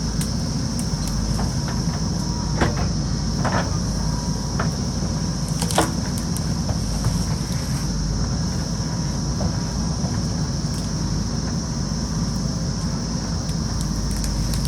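Backhoe loader's diesel engine running steadily under work, with a few sharp knocks from the machine about two and a half, three and a half and six seconds in.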